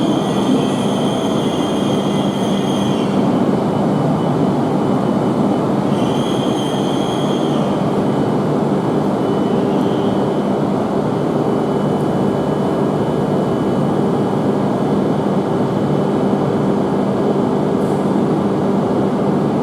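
Tohoku Shinkansen train running alongside the platform: a loud, steady rumble and hiss with a steady low hum. High squealing tones come and go, at the start and again about six seconds in.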